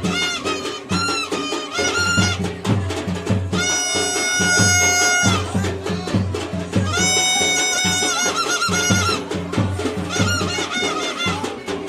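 Traditional music: steady drumming with a bright, reedy wind instrument playing the melody in short, bending notes, with two long held notes about four and seven seconds in.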